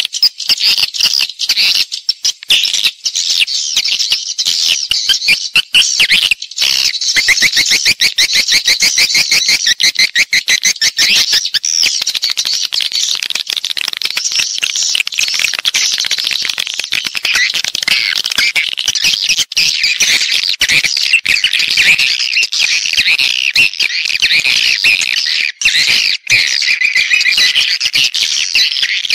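Swiftlet house-lure calls: a dense chorus of edible-nest swiftlets twittering and chirping rapidly and without a break, high-pitched and overlapping.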